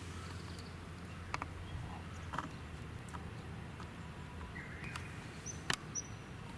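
Steady low outdoor rumble with a few sharp clicks, about a second and two seconds in and again near the end. Short high bird chirps come near the end.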